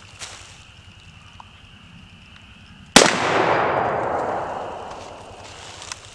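A single shot from a 1944 M1 Garand rifle firing .30-06, about three seconds in, followed by a long echo that fades away over about two seconds.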